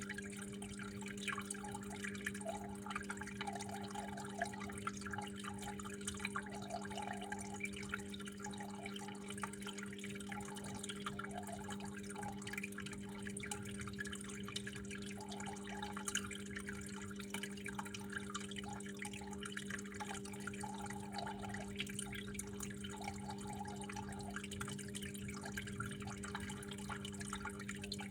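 Water trickling and dripping in a steady stream, with small splashes throughout over a constant low hum.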